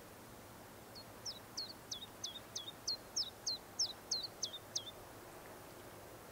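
A songbird singing a series of about a dozen short, high notes, each sliding quickly down in pitch, roughly three a second, for about four seconds, over a steady faint hiss.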